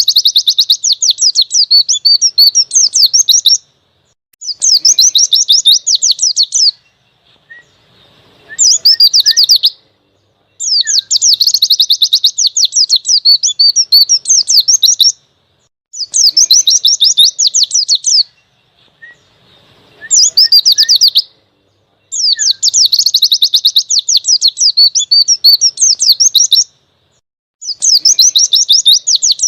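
White-eye (pleci) singing its wild-type song: repeated high-pitched phrases of rapid, chattering notes, each lasting one to four seconds, with short pauses between them.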